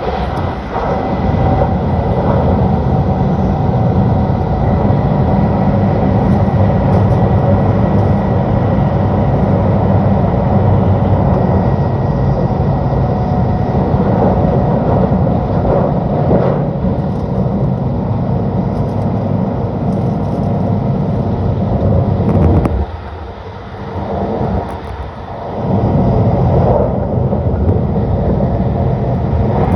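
Shinkansen bullet train running: a steady rumble and rush with a faint whine held through it, dropping away briefly twice a little past the middle.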